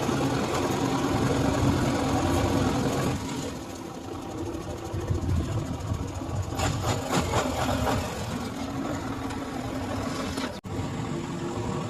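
A vehicle engine running steadily, with a short break in the sound about ten and a half seconds in.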